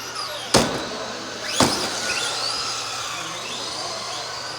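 Radio-controlled Euro racing trucks' electric motors whining as they lap, the pitches rising and falling with throttle, with two sharp knocks about half a second and a second and a half in.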